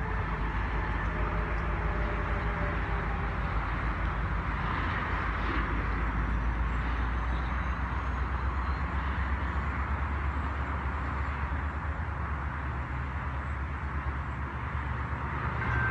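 A freight train rolling away down the line: a steady low rumble with an even hiss of wheel-on-rail noise.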